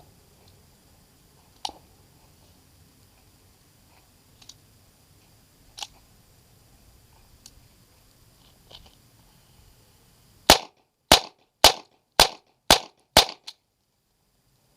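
USFA Zip 22 pistol firing .22 LR Armscor rounds: six sharp shots in quick succession, about two a second, with the pistol cycling each round without a stoppage. A few faint clicks come before the shots.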